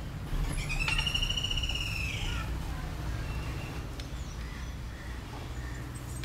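A bird's single drawn-out, high, whistled call lasting about two seconds, rising slightly and then falling away, over a steady low hum.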